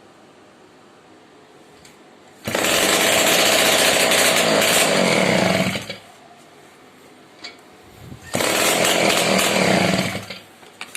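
Soviet Sh-58 two-stroke moped engine kick-started: it fires and runs for about three seconds, then dies, catches again for about two seconds near the end and dies once more. It will not keep running; something about it is not right.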